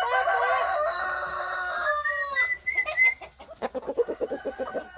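A rooster crowing, one long drawn-out crow that falls away at its end, followed by other chickens chirping and clucking in quick runs.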